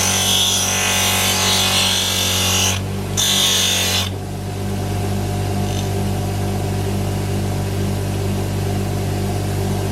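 Small electric power tool running steadily, with a harsh scraping or grinding noise for about the first four seconds, briefly broken near three seconds. After that it settles to a lighter, steady whir.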